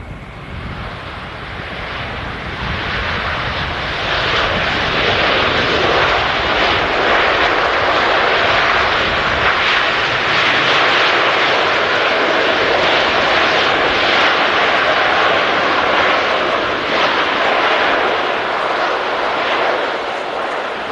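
Jet airliner's engines roaring as it passes low overhead on landing: the roar swells over the first few seconds, holds loud for a long stretch, then eases slightly near the end.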